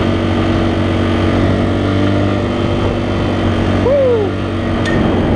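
Dual-sport motorcycle engine running at a steady pitch while riding, under steady wind noise on the helmet camera's microphone.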